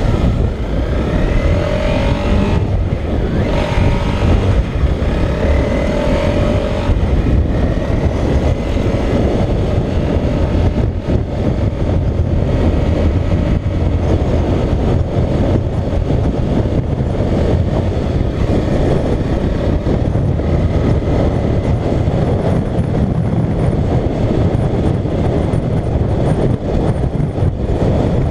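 Motorcycle engine running at road speed under heavy wind rush on the camera microphone. Its pitch rises and falls a few times in the first several seconds as it revs through the gears, then settles into a steady rush.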